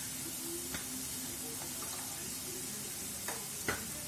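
Chicken pieces sizzling steadily in hot oil in a kadhai, with a few light clicks about a second in and twice near the end.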